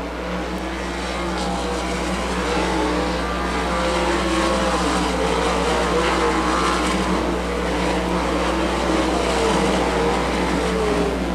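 Several winged sprint car engines racing around a dirt oval at once, their pitches rising and falling as they go through the turns, growing louder over the first few seconds as the pack comes by.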